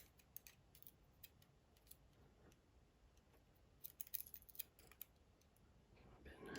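Faint, scattered light clicks of small metal lock pins and tools being handled while the pins are taken out of a dismantled lock, with a short cluster of clicks a little past the middle.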